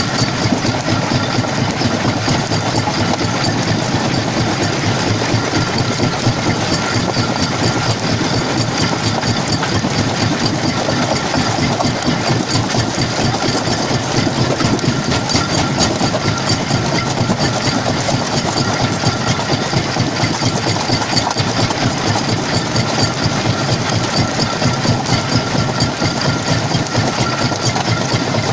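Jaw crusher plant running steadily, a loud, continuous machine clatter with a dense rapid rattle and a faint steady whine.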